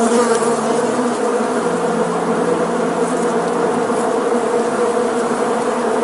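Flying insects buzzing steadily, a dense drone with no break.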